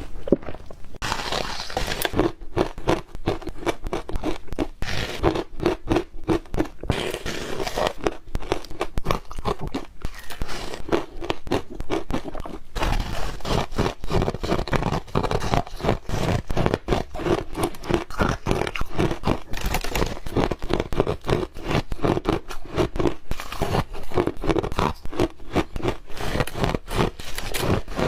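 Ice being bitten and chewed close to the microphone: a dense, continuous run of crunches and cracks.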